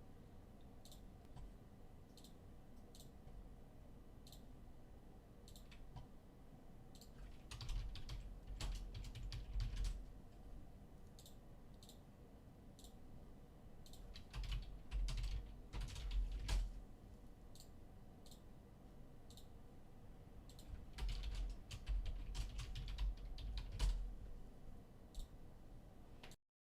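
Typing on a computer keyboard: scattered key clicks with three busier bursts of typing, then the sound cuts off abruptly near the end.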